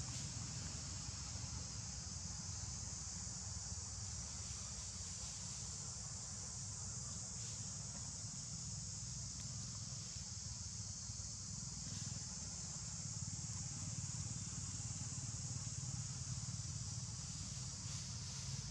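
Steady, unbroken high-pitched drone of insects, over a low steady rumble.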